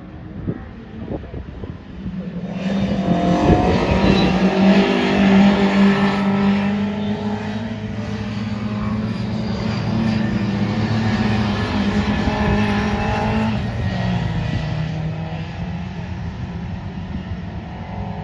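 Racing engines of pre-1966 touring cars running hard, several engine notes overlapping and rising and falling in pitch. The sound jumps loud about two and a half seconds in and eases off after about fourteen seconds.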